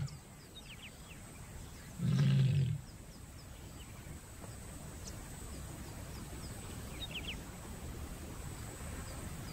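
A lion giving one deep call of under a second, about two seconds in, over a low steady background hiss with a few faint bird chirps.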